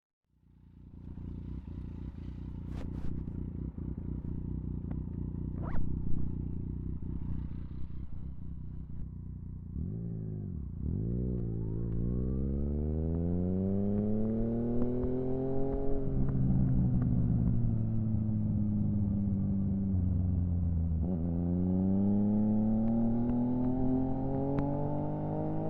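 Yamaha FZ-09's 847 cc inline-three engine running unevenly at low revs with a couple of sharp clicks. About ten seconds in, the revs dip, then climb steadily as it accelerates, ease off, and climb again near the end.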